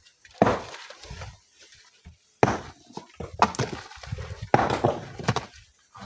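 Rocks being broken and handled in hand mining: a series of sharp knocks, about five in six seconds, each trailing off briefly.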